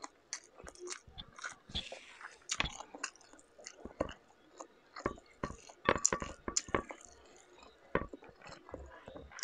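Close-miked chewing and mouth clicks of someone eating whole cooked shrimp, with irregular crackles as shrimp shells are picked apart by hand.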